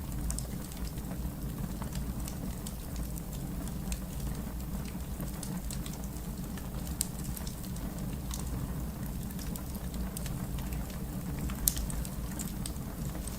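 Wood fire crackling: a steady low rumble of flames with scattered sharp pops and snaps, two louder pops about seven seconds in and near the end.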